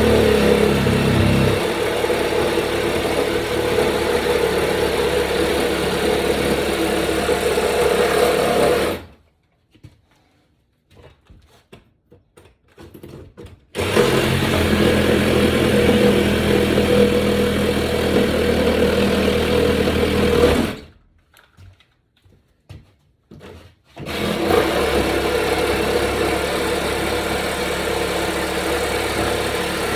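Electric power saw running in three long cuts through flooring, each lasting several seconds and winding down when it stops, with short pauses between.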